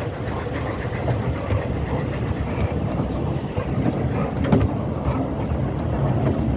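Narrow-gauge railway carriage running along the track: a steady rumble of wheels on rail with irregular clicks and rattles, and one sharper click about four and a half seconds in.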